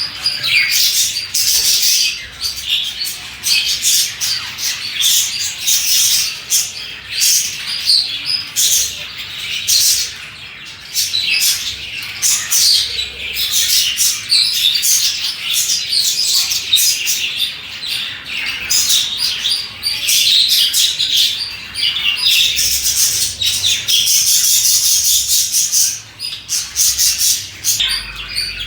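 A flock of budgerigars (budgies) chirping and chattering non-stop, with a steady mix of quick chirps, warbles and occasional squawks.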